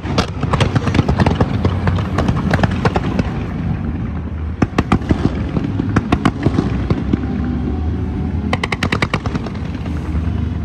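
Fireworks display: rapid cracks and bangs, thickest in the first few seconds, with a fast run of crackles about eight and a half seconds in, over a steady low rumble.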